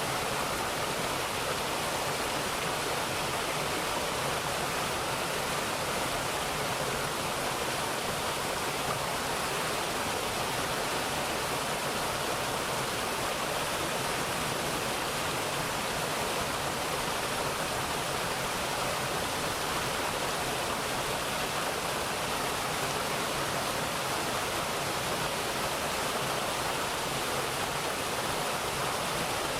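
Mountain valley stream running over rocks, a steady, even rush of water with no pauses or changes.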